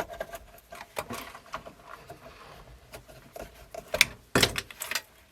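Light clicks and handling noises of wires and small parts being worked inside a cassette deck's chassis, with a sharper click about four seconds in and a short scraping rattle just after.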